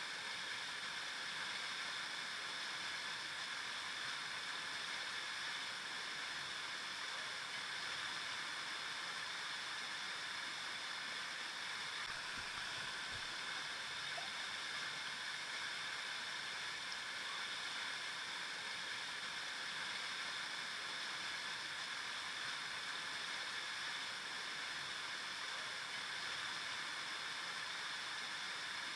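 River water flowing over rocks: a steady rushing sound, mostly high and hissy, that stays even throughout.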